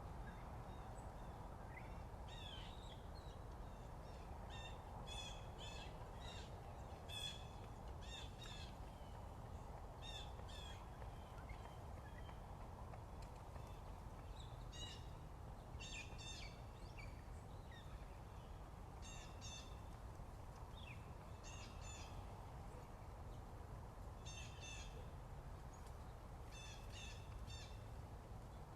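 Birds calling in short clusters of rapid, repeated notes every second or two, over a steady low background rumble.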